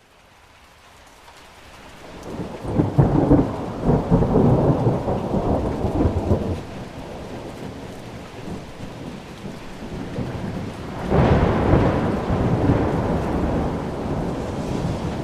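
Two rolls of thunder over steady rain: the first swells up and rumbles for several seconds, and the second breaks in more suddenly about eleven seconds in and trails off slowly.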